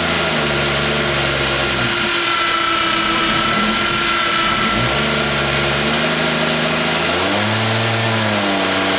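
Freshly rebuilt Toyota 2JZ-GTE twin-turbo inline-six running on its first start, its revs held and shifting up and down several times, with a steady high whine over the engine note.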